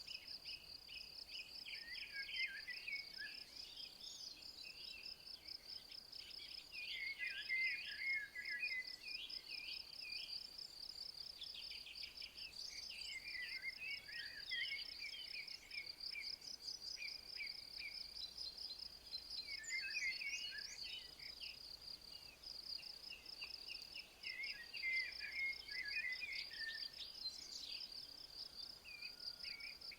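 Crickets chirping in a steady, fast-pulsing high trill, with a songbird singing short warbling phrases every five or six seconds.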